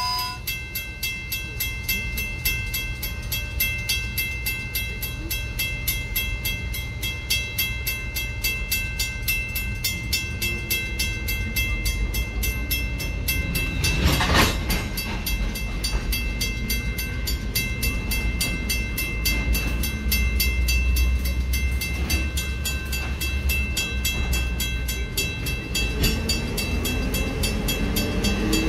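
Freight train of open-top gondola cars rolling slowly across a grade crossing: a steady rumble of wheels on rail with a fast, even ticking throughout. A single loud clank comes about halfway through.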